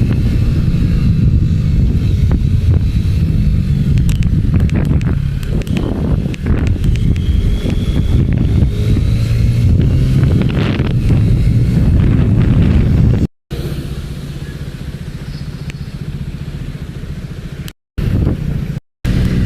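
Motorcycle engine running steadily with a low rumble, heard from on board while riding. The sound cuts out briefly three times, at about 13, 18 and 19 seconds in.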